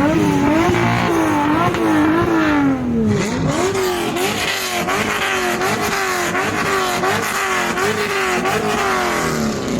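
A car engine revved again and again in quick blips, its pitch climbing and falling back about twice a second, with one deeper drop about three seconds in.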